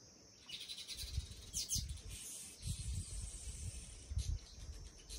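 Birds chirping, with a high hiss that comes in about half a second in and irregular low rumbles underneath.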